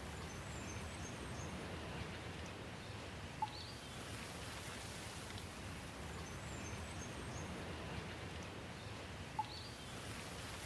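Steady rain falling, an even hiss, with faint high bird chirps twice. A short, sharp note, like a drip or a single bird call, stands out twice, about six seconds apart.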